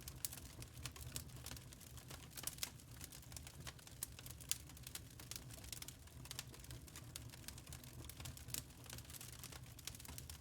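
Wood fire crackling in a fireplace: a steady stream of irregular sharp pops and snaps over a low, even rumble of the burning logs.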